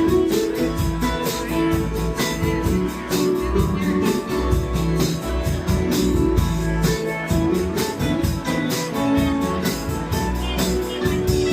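Band playing live: guitar over bass and drums, with a steady beat on the cymbals.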